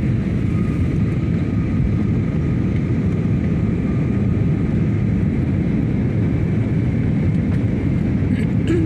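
Steady drone of an airplane's engines: an even low rumble with two faint steady whines above it.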